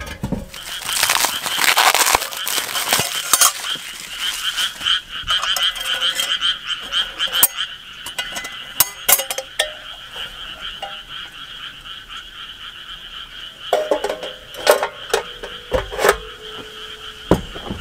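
A chorus of frogs calling steadily in a continuous pulsing trill, with scattered sharp clicks and clinks, more of them near the end.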